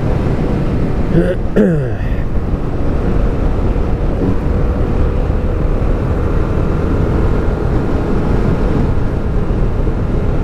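Motorcycle running at steady speed with heavy wind rush, steady throughout. About a second and a half in, a short pitched sound falls quickly in pitch.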